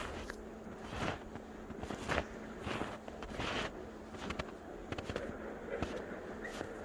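Footsteps crunching through snow, an uneven series of crisp crunches about one or two a second, over a steady low hum.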